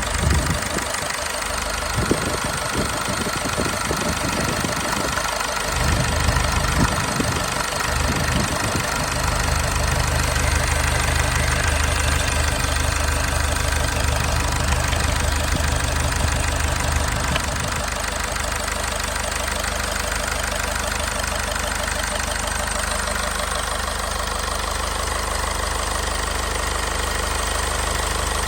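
Mazda 6 diesel engine running at idle, an engine with too much blowby. Its low rumble is uneven for the first few seconds, heavier for a stretch, then eases at about 17 seconds.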